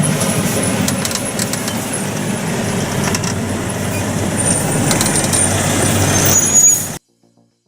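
Heavy logging truck running, with a steady engine and road rumble, scattered rattling clicks and brief high squeals. The sound cuts off suddenly near the end.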